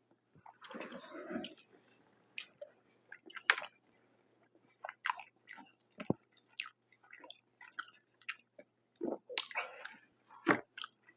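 Close-miked chewing of a mouthful of food: irregular wet mouth clicks and smacks, a few of them sharper and louder.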